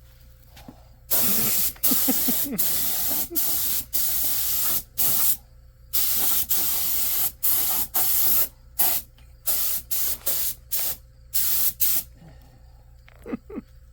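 Paint spray gun hissing in about a dozen bursts as its trigger is pulled and released, the spurts ranging from brief to over a second long.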